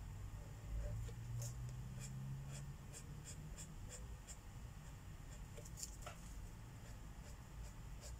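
Felt marker tip scratching across paper in short, regular strokes, about two a second, as a mandala is colored in, over a faint low hum.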